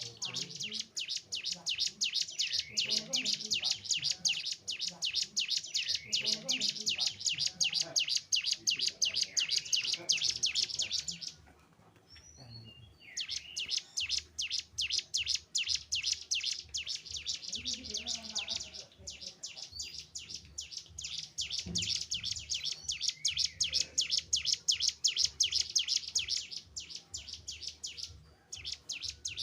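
A cigun (ciblek gunung, a mountain prinia) singing a long, rapid, high-pitched trill of fast repeated chirps, about ten a second, breaking off for a second and a half about eleven seconds in, then going on, with another short pause near the end.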